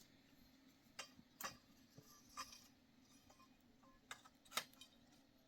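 A few faint, short clicks and light taps, about six of them scattered irregularly, over a quiet, steady low hum.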